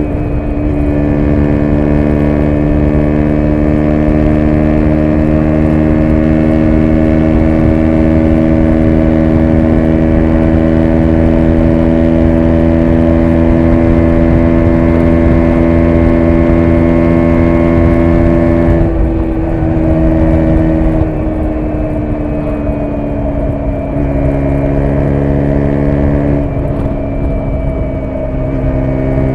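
2017 KTM 125 Duke's single-cylinder four-stroke engine pulling hard at high revs, its note creeping slowly higher for about nineteen seconds. It then drops away as the throttle eases, and the note changes in steps a few more times near the end.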